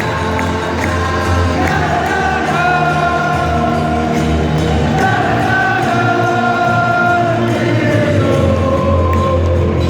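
Football crowd singing a chant together in long, held notes.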